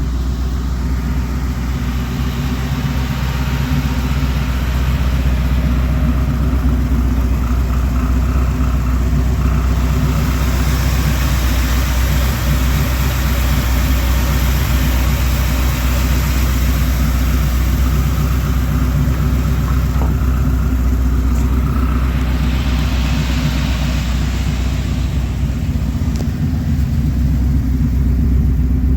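The truck's GM ZZ3 350 small-block V8 crate engine running steadily, its low note even throughout, with more hiss over it for a stretch in the middle.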